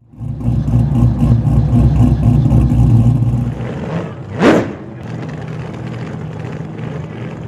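Pickup truck's V8 exhaust running loud with a fast, choppy pulse for about three and a half seconds, then settling quieter. A brief rising swish about four and a half seconds in.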